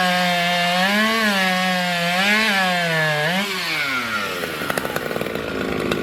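Two-stroke racing chainsaw at full throttle cutting through a log, its pitch sagging and recovering a few times under load. After about three and a half seconds the engine note falls away as the cut finishes, leaving a rattle of short clicks.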